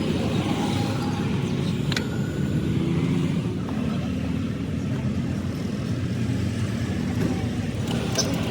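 Tractor engine running steadily, with a single sharp click about two seconds in.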